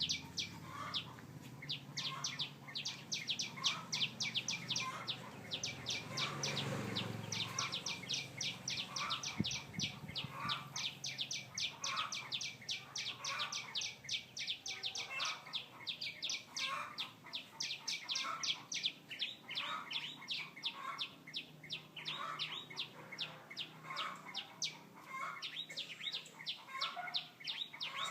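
A bird singing: an unbroken run of quick, high chirps, about four or five a second, with a lower note about once a second.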